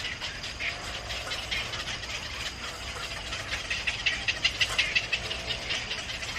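Small birds chirping in rapid short high notes, coming quickest a little past the middle, over a steady low hum.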